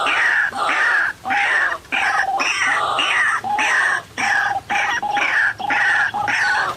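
White-breasted waterhen (ruak-ruak) calling loudly and without pause, a harsh repeated note about twice a second.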